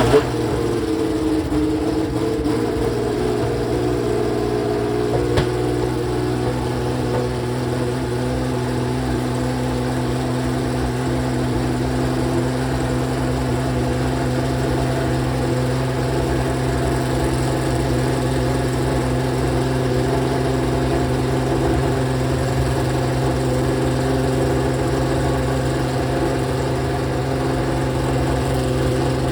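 Ferrari 639 Formula One car's 3.5-litre V12, just fired up and idling. Its pitch wavers for the first few seconds, then settles into a steady idle, with one brief tick about five seconds in.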